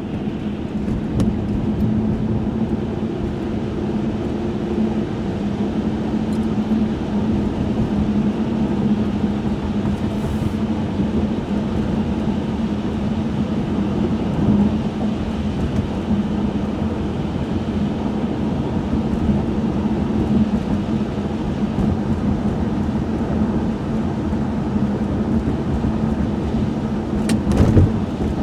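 Cabin sound of a 1995 Chevrolet Monte Carlo driving on a wet, snowy road: a steady engine drone under tyre and road noise. A brief knock comes near the end.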